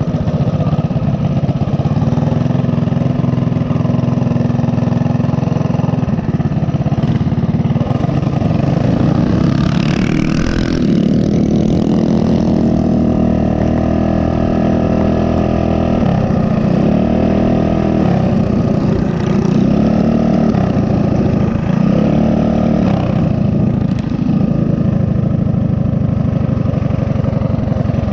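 Mini bike's small single-cylinder four-stroke engine running under way, its pitch rising and falling several times as the throttle is opened and eased off. A brief rush of noise comes about ten seconds in.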